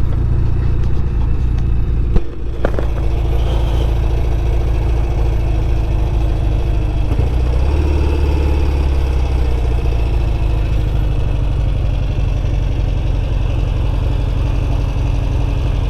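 Norton Commando 850 Mk2's parallel-twin engine running steadily, with a single sharp knock about two seconds in.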